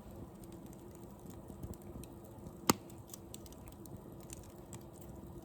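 Wood fire crackling, with small irregular pops and one loud sharp crack a little past halfway.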